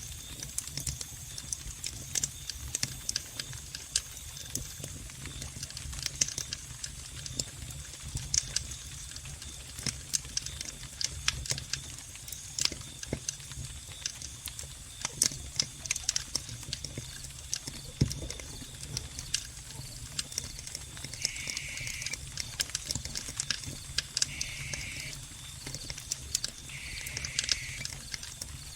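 Wood fire in a fireplace crackling, with frequent sharp pops over a low steady rumble. Crickets chirp behind it: a thin steady high trill, and three short trills of about a second each in the last third.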